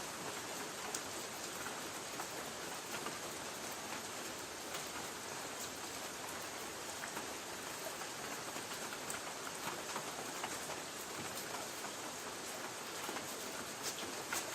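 Light rain falling on a tin roof: a steady patter with scattered sharper drop ticks on the metal.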